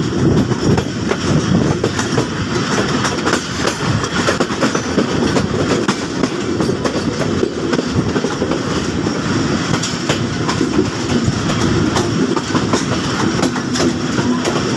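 Passenger train coaches running at speed, heard from aboard beside an open door or window. There is a steady rumble with rapid, irregular wheel clatter as the wheels pass over the track and a set of points.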